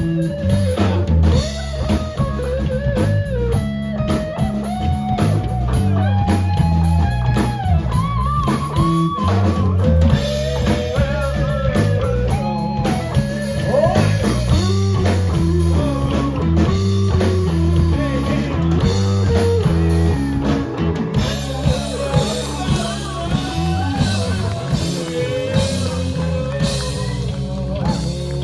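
Rock music: guitar playing a wandering, bending melody over a steady bass line and a drum kit.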